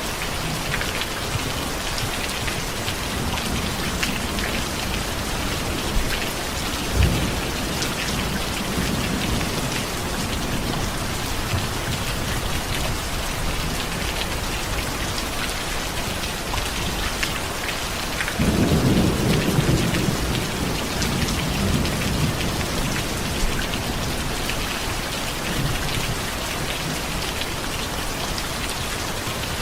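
Steady heavy rain. A short thunder rumble comes about seven seconds in, and a louder, longer rumble of thunder about eighteen seconds in, fading over several seconds.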